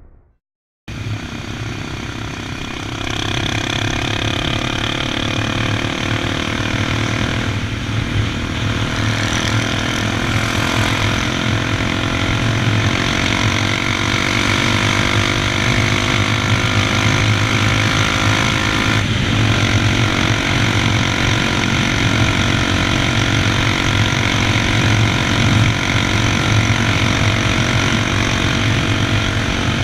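Honda XR 250 Tornado's single-cylinder four-stroke engine running steadily while riding, after a brief silence at the start. The engine note glides slowly in pitch and gets louder about three seconds in.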